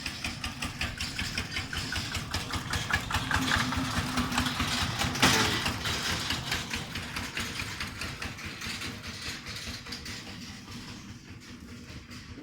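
An engine running with a rapid, even firing beat. It grows louder over the first few seconds, has a brief louder burst about five seconds in, then fades away.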